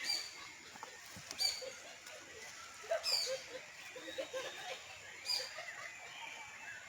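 Birds calling: a short, high, falling chirp repeats every second or two, over fainter, lower calls.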